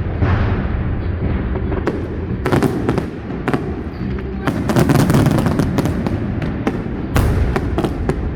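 Aerial fireworks bursting: loud bangs and dense crackling over a continuous low rumble, with thick clusters of cracks in the middle and another sharp bang near the end.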